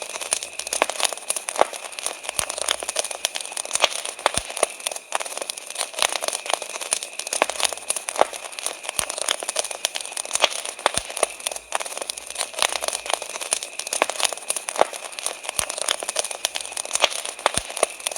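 Wood campfire crackling, with many irregular small snaps and occasional louder pops. A steady high chirring of crickets runs behind.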